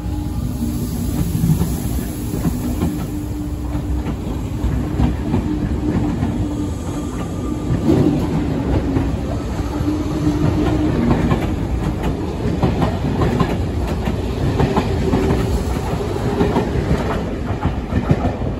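SNCF MI84 electric multiple unit pulling out of the station and running past. Its wheels clatter over rail joints above a steady low rumble and motor hum.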